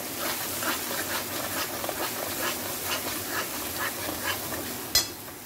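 Onion-free spice masala frying in oil in a kadai, sizzling, while a metal spatula stirs and scrapes it around the pan in quick repeated strokes. A sharp click comes near the end, and the sound is quieter after it.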